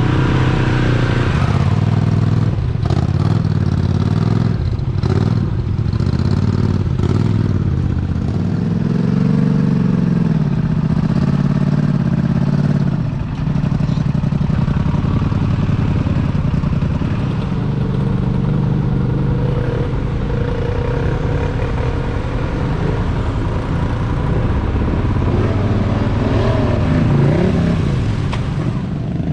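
Mega truck engine running hard, its pitch rising and falling as it revs, about ten seconds in and again near the end. Clattering knocks in the first several seconds.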